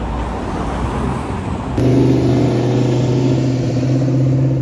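Car engine noise: a loose mix of engines for the first couple of seconds, then a louder car engine comes in abruptly and runs held at one steady pitch.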